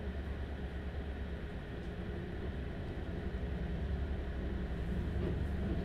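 Interior of a Stadler Class 755 FLIRT bi-mode train running under diesel power: a steady low drone from the diesel power-pack engine mixed with the train's running noise, growing a little louder near the end.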